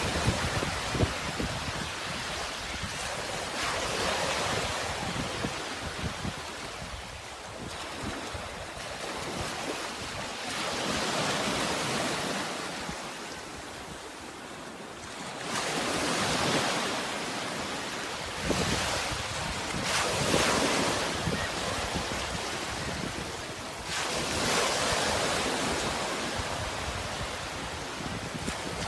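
Sea waves washing in and drawing back, a steady rush that swells and ebbs every few seconds.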